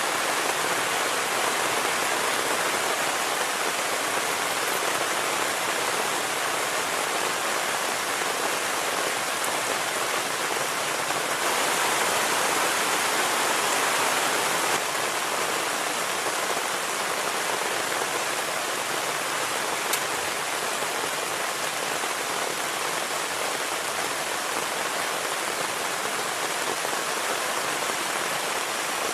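Heavy rain falling in a steady dense hiss, growing heavier for a few seconds about twelve seconds in.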